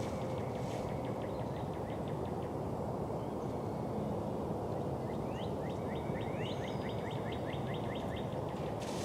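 A small bird calling two runs of short rising high notes, the second run faster, about five notes a second, over a steady low outdoor rumble.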